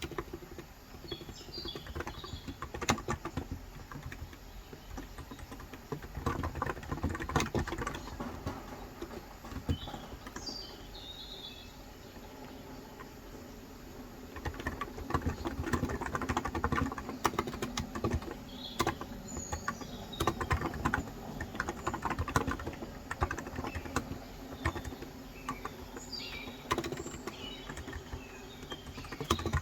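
Typing on a COX Endeavor electro-capacitive keyboard with light 35 g switches, keystrokes clattering in quick runs with a short lull midway. Birds chirp briefly several times in the background.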